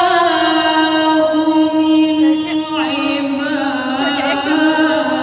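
Quran recitation (tilawah) by a single voice in a melodic chant: a long held note, a sliding ornamented turn about halfway through, then another long held note.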